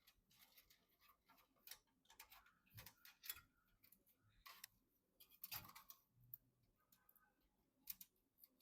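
Faint, irregular clicks, taps and brief rustling scrapes of computer parts and packaging being handled during assembly.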